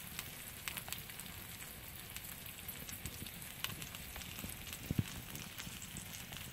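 Quesabirria tacos (cheese-and-beef-filled corn tortillas) frying in rendered beef fat on a griddle: a steady sizzle with scattered small crackles, and one sharper pop about five seconds in.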